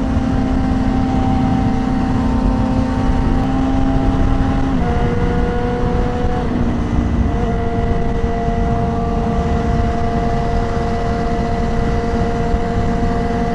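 Yamaha R6 inline-four engine running steadily at highway cruising speed, over constant wind and road rush. The engine note drops a step about five seconds in and again around six to seven seconds, then holds steady.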